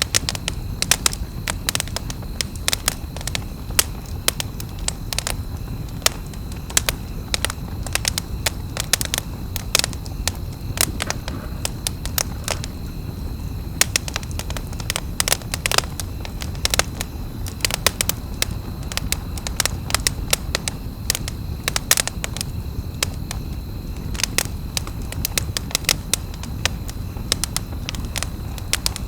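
Wood campfire crackling, with many irregular sharp pops and snaps over a low steady rumble of the flames.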